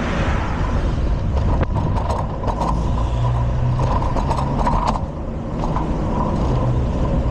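Riding noise from a bicycle in city traffic: a steady rumble of road and wind noise, with scattered clicks and rattles from the bike between about one and five seconds in. A motor vehicle's low engine hum joins about three seconds in.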